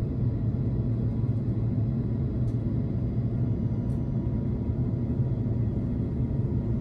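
Steady low rumble of an airliner cabin: engine and airflow noise of a passenger jet, heard from inside.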